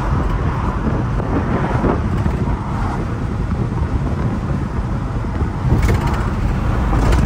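Honda Acty kei truck driving along, its engine and road noise making a steady low rumble heard from inside the small cab.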